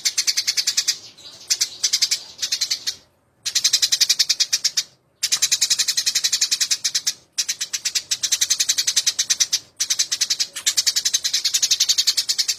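Eurasian tree sparrows (burung gereja) chirping fast and harshly, as in a fight. The high chirps come about ten a second in runs of a couple of seconds, separated by brief gaps.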